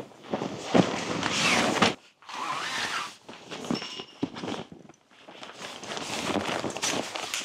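Footsteps crunching in snow, in uneven bursts with two short pauses.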